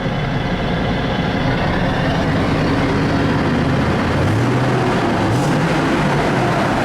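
Supercharged V8 engine of a Ford SVT Lightning pickup running under way. Its pitch rises about four seconds in as the truck picks up speed. It is kinda quiet for a truck with side-exit exhaust.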